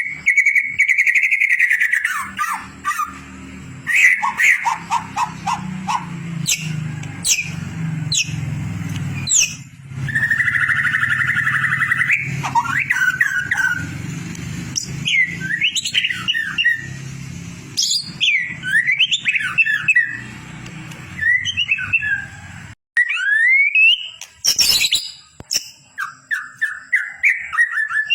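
White-rumped shama (murai batu) song: a run of varied, loud whistled phrases, quick trills and sweeping notes in short bursts with brief gaps. The song is a masteran recording played to train competition songbirds. A low steady hum sits underneath and cuts out suddenly near the end.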